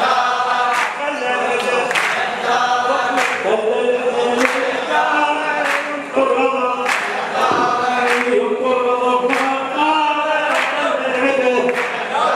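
Male voices singing a Shia latmiya lamentation chant in chorus, over a sharp beat that falls about every 1.2 seconds.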